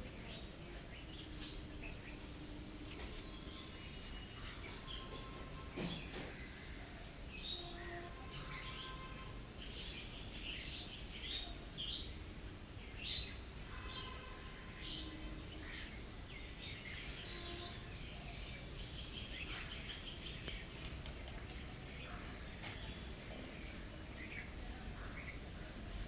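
Steady high-pitched insect drone, like crickets, with many short bird chirps scattered through it over a low background rumble.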